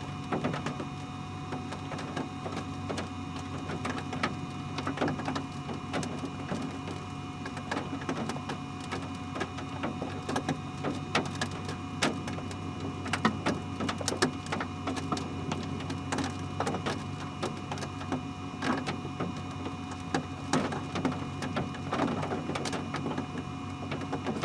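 Scattered raindrops ticking irregularly on the roof and windshield of a stopped car, over a steady low hum heard from inside the car.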